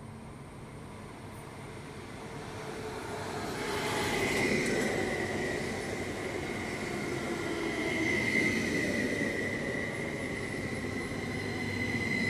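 A Stadler FLIRT electric multiple-unit passenger train (NSB/Vy Type 74/75) running along the platform track. Its rumble grows louder from about two seconds in, and a steady high-pitched whine sets in at about four seconds and holds.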